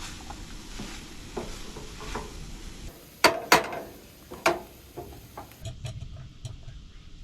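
A utensil clinking and scraping on cookware: three sharp knocks with a short ring about three to four and a half seconds in, then a few lighter taps.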